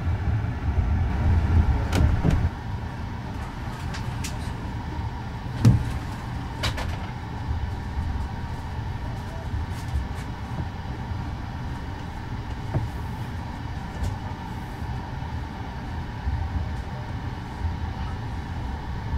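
Passenger train running noise heard from inside a couchette car: a steady low rumble, louder for the first two seconds or so, with scattered knocks from the wheels and running gear. The loudest knock comes about six seconds in, as the train rolls along a station platform.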